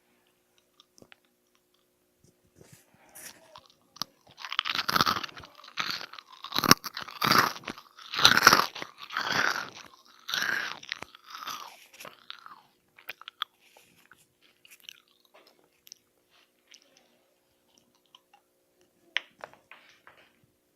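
Crunchy food being bitten and chewed close to the microphone: a run of loud, crisp crunches for about eight seconds, then quieter scattered chewing.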